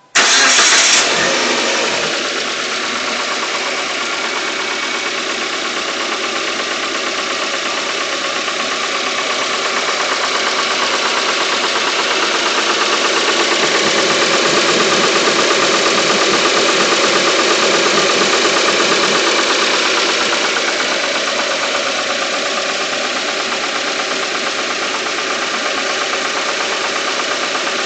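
Car petrol engine running with a rapid knocking rattle that the owner suspects is either an IAFM intake-manifold fault or engine knock. It gets slightly louder midway through.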